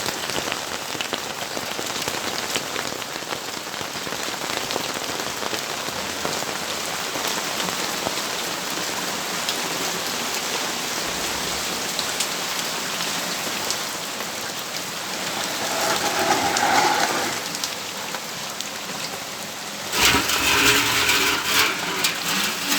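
Steady rain falling, with single drops ticking sharply close by. Two louder sounds with a pitched tone rise over the rain, briefly about two thirds of the way in and again for a couple of seconds near the end.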